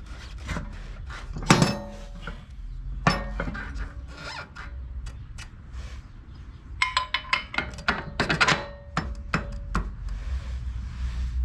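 Metal clinks and ringing clanks of steel parts and hand tools as a lower control arm is bolted onto a car frame. A loud clank comes about a second and a half in, another about three seconds in, and a quick run of clinks follows later.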